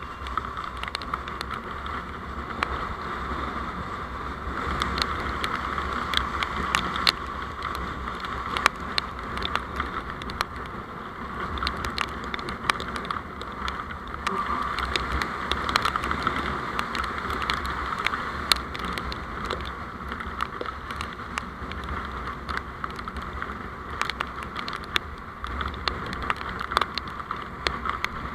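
Vehicle road noise picked up by a dashcam on the move: a steady low rumble and hiss, with many sharp clicks and ticks throughout.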